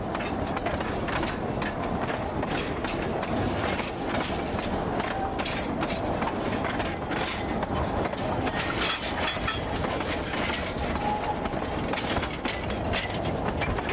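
TU7 narrow-gauge diesel locomotive running on a 750 mm track. Its engine gives a steady noise while the wheels clatter over the rail joints, with frequent irregular knocks and rattles.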